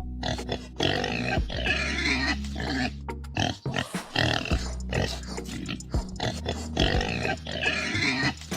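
Pigs grunting and squealing in a steady run of irregular calls, over background music with a steady low bass.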